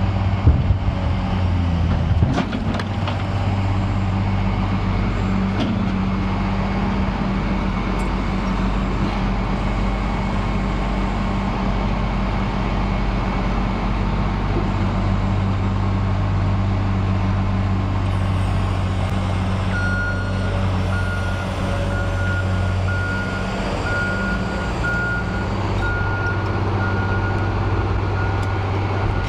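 Heavy vehicle engine running steadily, with a few sharp knocks in the first couple of seconds. About two-thirds of the way through, a reversing alarm starts beeping, about one and a half beeps a second.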